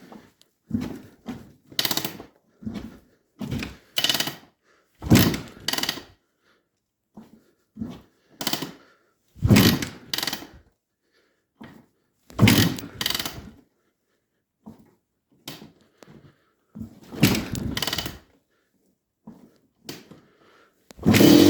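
1991 Honda CR250R two-stroke motocross engine being kick-started cold after a year and a half unused: a long series of short kicks turning the engine over without it catching, until it fires and settles into a steady run right at the end.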